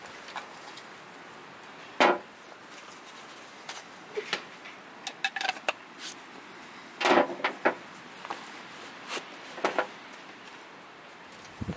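Scattered knocks, clunks and clicks of objects being handled and set down, over a steady faint hiss. The loudest knocks come about two seconds in and again about seven seconds in.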